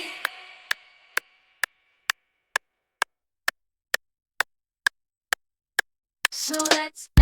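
A break in the music track: after the song cuts off with a short fading echo, a steady ticking follows, just over two sharp ticks a second. Near the end a short noisy swell leads back into the music.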